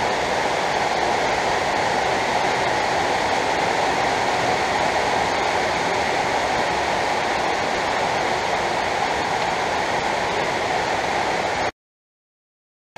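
Heavy rain on the garage roof, heard from inside as a loud, steady rushing hiss. It cuts off suddenly near the end, leaving silence.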